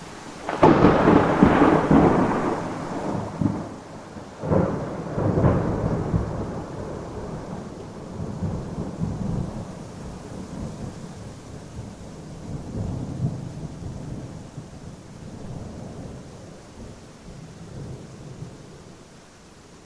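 Thunder cracks about half a second in and again around five seconds in, then rumbles and slowly dies away over steady rain.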